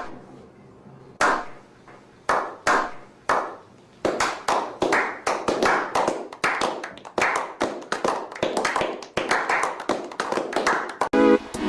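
Slow clap: single hand claps, spaced about half a second to a second apart, then from about four seconds in a quicker, steadier run of claps, roughly three a second. Each clap rings briefly in the room.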